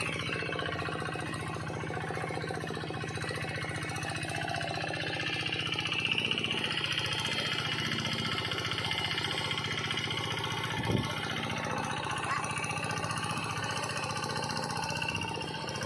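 Engine of a ride-on modified paddy tractor running steadily while it ploughs a rice field, with a higher-pitched whine that swells and fades a few seconds in and a single short knock about eleven seconds in.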